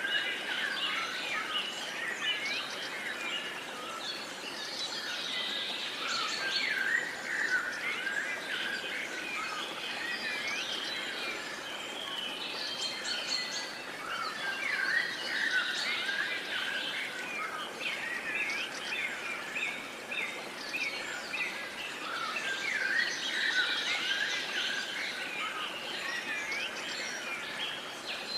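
A chorus of many songbirds singing and chirping together, dense overlapping calls and short whistled glides that go on without a break.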